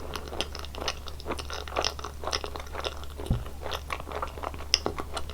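Close-miked chewing of gummy jelly candy: a dense run of irregular wet, sticky chewing clicks and smacks, with a single low thump about three seconds in, over a steady low hum.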